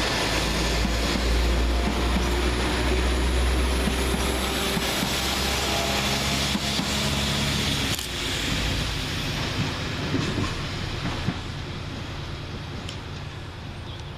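Two coupled Class 172 diesel multiple units pulling away, their underfloor diesel engines running with a low rumble and steady engine tones. About halfway through the sound drops, then fades steadily as the train draws away.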